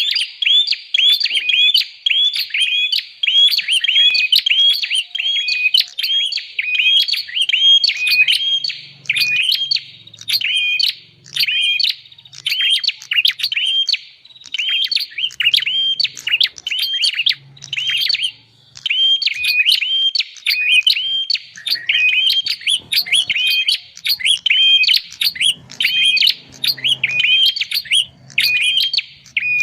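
Prinia (prenjak) calling: a fast, unbroken string of sharp, high chirps, two to three a second, with only brief pauses.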